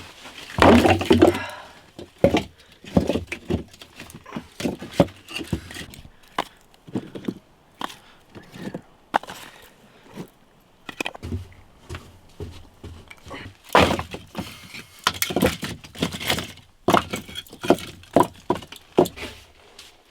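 Irregular sharp cracks and knocks from hands-on work, densest about a second in and again from about fourteen to seventeen seconds in.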